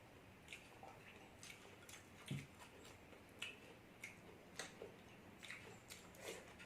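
Close-miked eating sounds: soft, irregular clicks and smacks of chewing, several a second, with one low thump about two seconds in.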